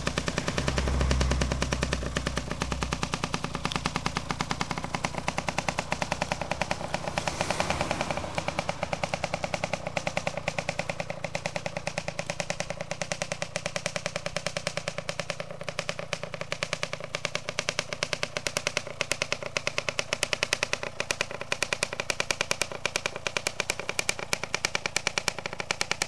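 Kawasaki KSR80's two-stroke single-cylinder engine running, a rapid steady popping beat, with brief swells in revs about a second in and again near eight seconds.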